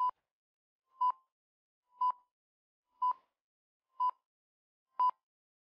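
Countdown timer sound effect: six short, identical beeps, one a second.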